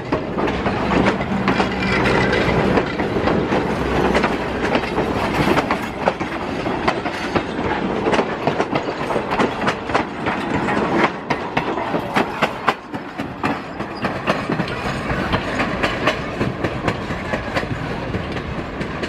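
Passenger railroad coaches rolling past slowly, their steel wheels clicking over the rail joints in an uneven clickety-clack that fades a little near the end as the train moves away.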